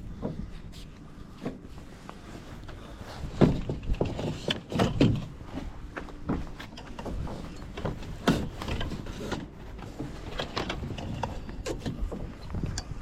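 Irregular knocks, bumps and rubbing from a small sailing dinghy and its gear being handled, over a low wind rumble on the microphone.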